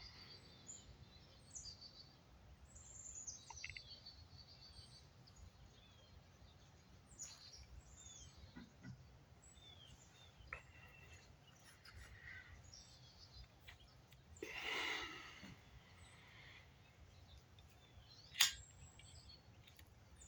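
Faint woodland birds chirping off and on, with a louder, rougher sound lasting about a second partway through and a single sharp tap near the end.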